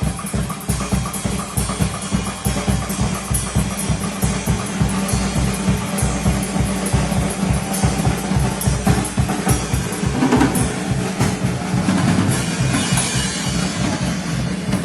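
Music led by a drum kit playing a fast, steady beat: rapid bass drum strokes with snare hits and cymbals above.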